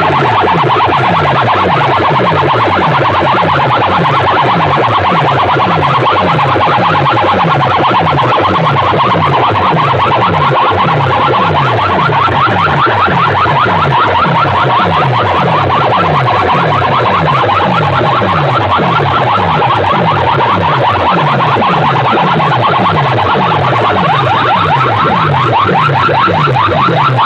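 Competition DJ sound system playing very loudly: a wavering, alarm-like electronic tone repeating over fast, even bass pulses of about four a second, without a break.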